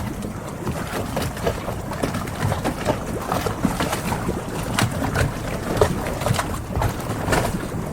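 Harbor ambience: water slapping and lapping around moored boats, with many small irregular knocks and clicks over a steady rush of noise.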